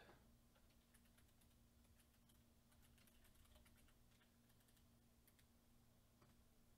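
Near silence with faint, irregular computer keyboard clicks over a low steady hum.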